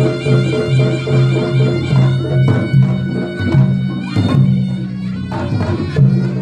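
Live reog accompaniment: a slompret (the reedy shawm of reog music) plays a sustained melody over a low pulsing beat of drums and gongs, with sharp percussion strikes.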